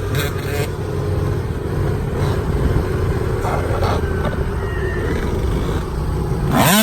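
Dirt bike engine running under a heavy, steady wind rumble on the microphone; near the end an engine revs up sharply.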